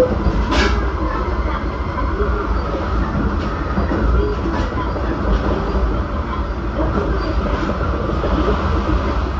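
Limited express Shinano electric train running along the line: a steady low rumble of wheels on rails with faint rail clicks, and one sharper click about half a second in.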